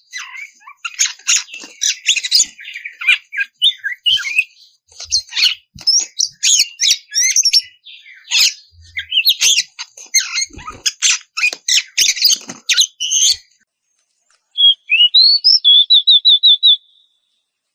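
Oriental magpie-robin (kacer) singing a fast, varied, scratchy song of densely packed notes and chatters, which breaks off about 13 seconds in. After a short pause comes one rising note and then a quick run of about seven repeated notes.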